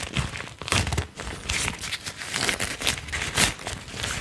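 Close-miked crinkling and rubbing: a run of irregular scratchy strokes.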